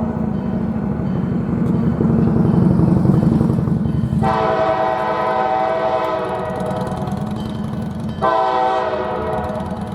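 Freight diesel locomotive sounding its multi-tone air horn for a grade crossing: a heavy engine and rail rumble, then one long horn blast about four seconds in and a second long blast just after eight seconds, with the rumble under both.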